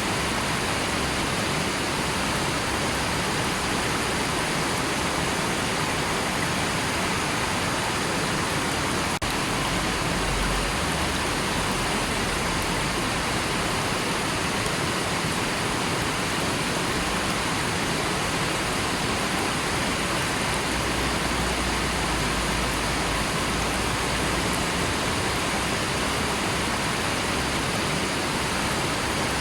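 River water rushing and flowing with a steady, even hiss that does not change.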